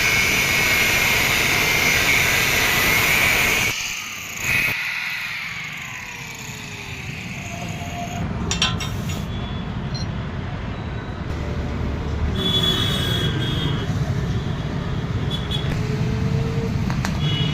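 Electric grinder grinding a drill bit with a steady hissing rasp; it is switched off about four seconds in and its pitch falls as the wheel spins down. A mixed mechanical rumble like passing traffic follows.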